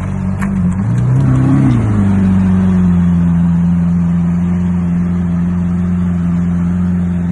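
Car engine running, its note rising briefly about a second in, then holding steady and loud.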